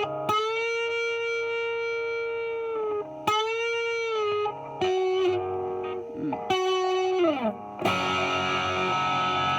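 Epiphone 1959 Les Paul Standard electric guitar on its bridge pickup, played through an amp's distortion channel. It plays sustained single lead notes with bends and vibrato and a slide down, then a distorted chord struck about eight seconds in that rings on.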